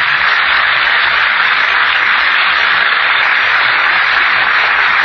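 Studio audience applauding steadily at the end of a song, heard on an old 1940s radio broadcast recording.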